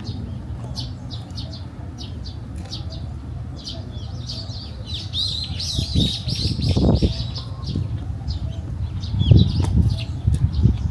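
Small birds chirping and twittering in many quick short calls, busiest around the middle, over a steady low rumble that swells a few times.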